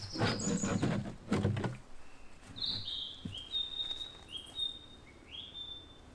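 Rustling and handling noise for the first two seconds, then a songbird singing a run of short whistled notes that alternate between two pitches.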